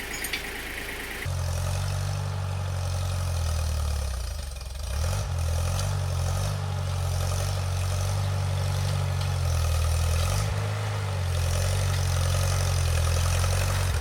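Bolens subcompact tractor engine running steadily close by, its pitch dipping briefly about four or five seconds in and then settling again.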